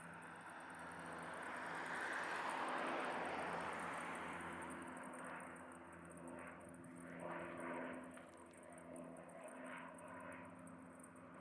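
A firefighting aircraft flying past: its noise swells to a peak a couple of seconds in, then fades away, leaving a steady engine hum.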